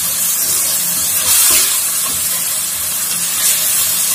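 Onion-and-tomato paste with chopped ginger, garlic and green chillies sizzling in hot oil in a metal pot, a steady hiss as the paste's water cooks off, with the faint scrape of a spatula stirring it now and then.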